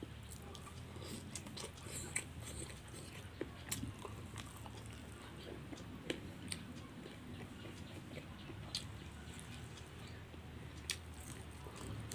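A person chewing and biting fried meat and rice close to the microphone, with scattered sharp crunchy clicks and mouth sounds over a low steady hum.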